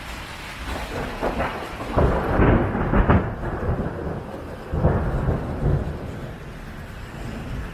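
Tropical thunderstorm: a peal of thunder crackles and rumbles over steady heavy rain on a tin roof, loudest about two to three seconds in, with a second rumble about five seconds in before it dies back to the rain.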